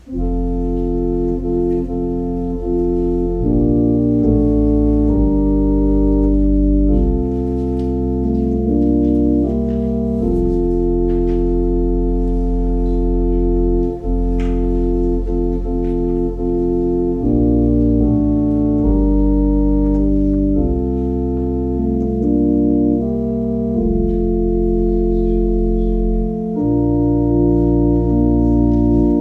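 Organ playing slow, sustained chords over a deep bass line, the harmony changing every second or two.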